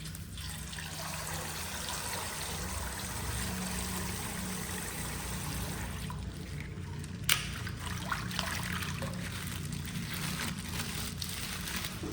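Coloured water trickling and pouring out of a plastic ice-pack bag as it is popped and squeezed, with a sharp click about seven seconds in and a few small crackles after it.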